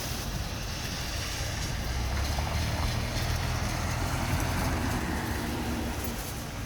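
Steady rain hiss with a vehicle going by on the wet street, its low rumble swelling about two seconds in and easing off after about five seconds.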